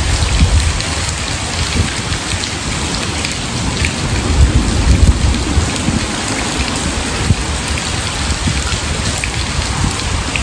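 Heavy downpour: a steady hiss of pouring rain with a low, shifting rumble underneath that swells about halfway through.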